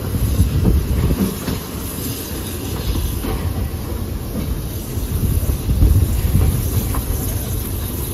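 Steady rumble and light clatter of a passenger coach's wheels rolling along the track behind a steam locomotive, heard from aboard the train.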